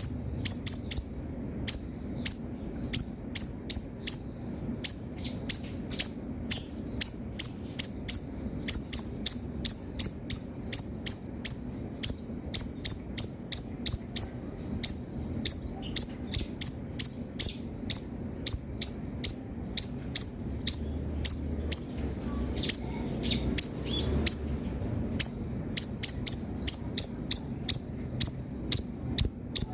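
Kolibri ninja sunbird singing: a fast run of short, sharp, high-pitched chirps, several a second, with a brief break a little past the middle filled by softer sliding notes, then the rapid chirping resumes.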